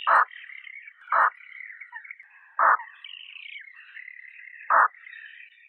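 Frog calling: four short, loud croaks about one to two seconds apart over a steady high-pitched trilling chorus.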